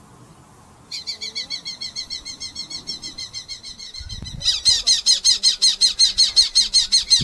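Red-footed falcon giving a rapid, evenly repeated call series, about six notes a second, starting about a second in and getting louder midway. A brief low rumble about four seconds in.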